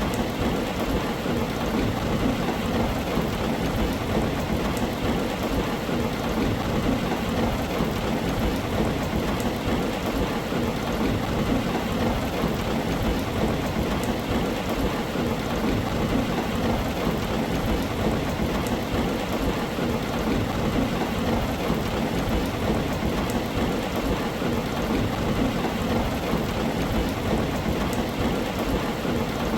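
Steady, dense rain falling on a tin roof, an even hiss with no breaks, and a constant low rumble underneath.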